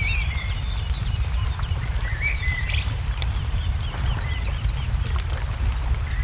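Wood fire crackling with scattered sharp pops over a steady low rumble, while small birds chirp and twitter throughout.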